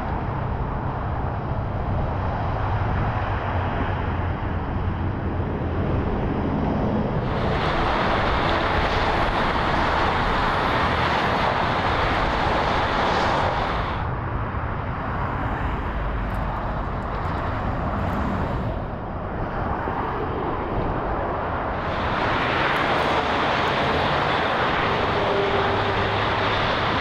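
Freeway traffic noise: a steady rush of vehicles passing, swelling twice for several seconds as heavier traffic goes by, with a low engine rumble in the first few seconds.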